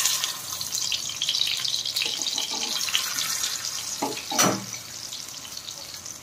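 Chicken chapli kababs shallow-frying in hot oil in a pan, a steady sizzle with small crackles. About four seconds in there is one short sound that falls in pitch.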